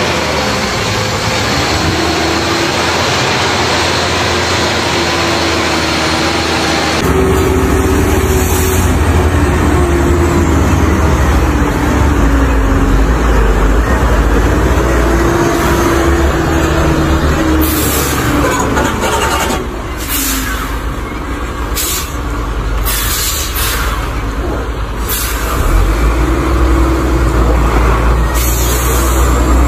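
A large vehicle's engine running with a heavy low rumble that shifts slowly in pitch, with several short hisses in the last third.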